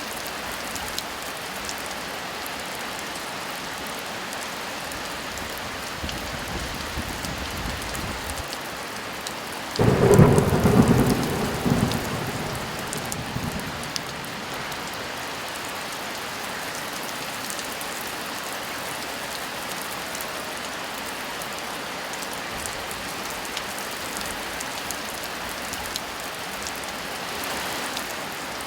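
Steady heavy rain falling, with a thunderclap about ten seconds in: a low rumble builds, then a loud crack that rolls on and dies away over a few seconds.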